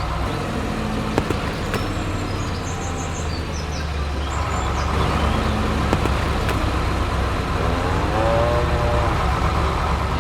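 Tractor engine running steadily with a low hum, with a couple of sharp clicks. Near the end comes a short call that rises and then falls in pitch.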